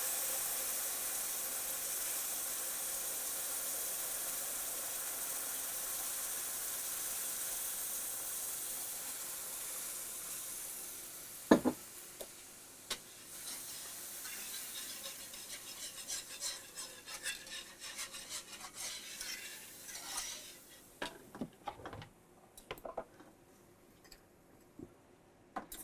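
Milk poured into a hot flour-and-bacon-grease roux in a skillet, sizzling steadily and fading away over the first ten seconds or so. Then a sharp knock, and a whisk scraping and clicking against the pan as the gravy is stirred.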